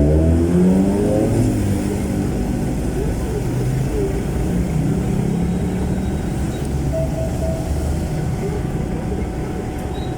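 Jeepney's Isuzu 4BC1 four-cylinder diesel engine through a very loud muffler, revving up in the first second or two, then running steadily under way.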